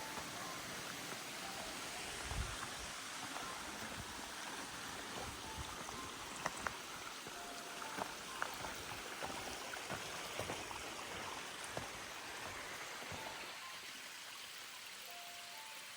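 Running water of a woodland stream flowing steadily, with a few scattered sharp clicks or knocks. The water noise eases slightly near the end.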